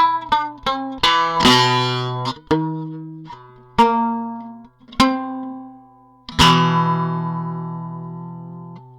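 Hekaton ST 63 guitar being played: a quick run of plucked notes, then a few slower single notes, and a final chord struck near the end that is left to ring and fade.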